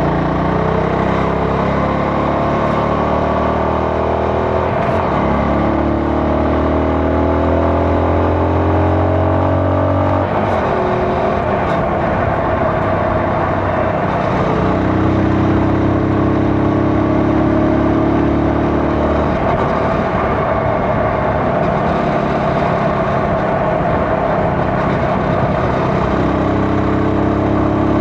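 CFMoto 250NK motorcycle's single-cylinder 250 cc engine under way, rising in pitch as it accelerates for about the first ten seconds. It then drops off and pulls on again in steadier stretches.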